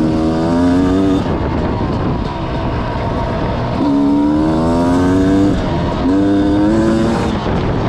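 Dirt bike engine revving up three times as the bike accelerates, each pull rising in pitch before dropping back, over steady wind noise.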